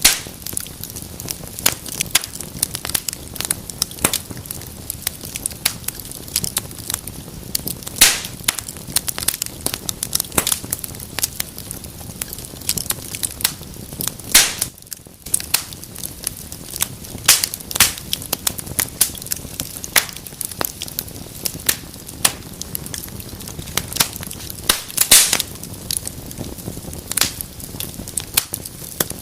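Wood fire in a fireplace crackling and popping, with frequent sharp snaps over a steady low hiss. A few louder pops stand out, one about eight seconds in and one near the end.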